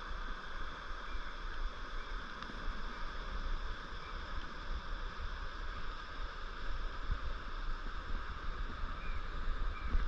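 Steady rushing of a mountain stream's current, an even wash of water noise with a low rumble underneath.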